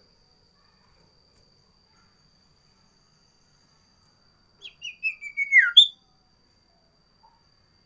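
A sirtu songbird sings one short whistled phrase about four and a half seconds in: a quick run of notes falling in pitch, ending in a sharp higher note. A faint steady high tone sits underneath the whole time.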